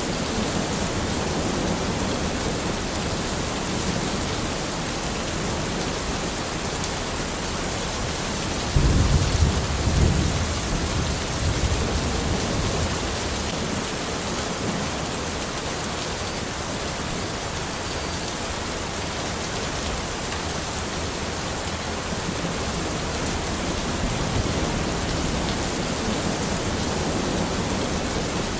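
Steady rain falling on a forest, an even hiss, with a low rumble of thunder for a few seconds about nine seconds in.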